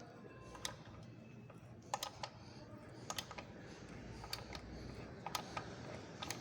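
Scattered sharp metal clicks, roughly one a second and irregular, over a low hum, as a tap is worked slowly through a tight thread for a helicoil insert.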